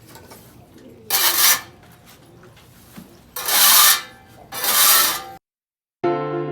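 Three rasping scraping strokes across a floor while cleaning a pigeon yard, each about half a second long, the second and third close together; then an abrupt cut to background music.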